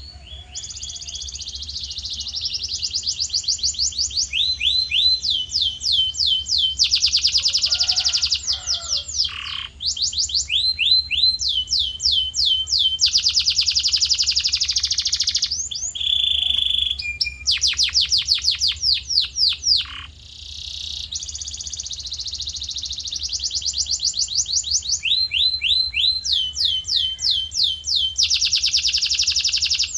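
Male canary singing a continuous song of high, rapid trills. Each phrase repeats one short note many times a second, then the song switches to a new phrase every second or few. Short breaks come about ten and twenty seconds in.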